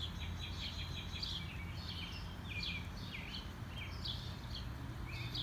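Small birds chirping in quick, repeated short calls over a steady low hum.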